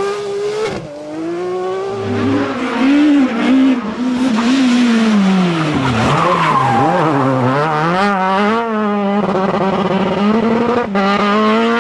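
Rally car engine revving hard on a stage, its pitch climbing and dropping again and again through gear changes and lifts.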